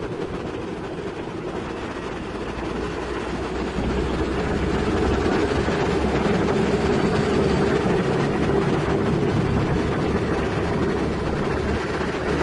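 Heavy diesel machinery running steadily with a low rumble, growing louder about four seconds in.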